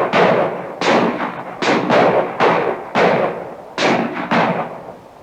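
Rapid gunfire: about seven shots in quick succession, roughly one every 0.7 s, each with a long echoing tail.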